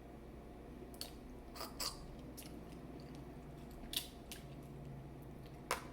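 Eating a seafood boil by hand: scattered sharp cracks and clicks of shell and food over a low steady background, with the loudest crack near the end.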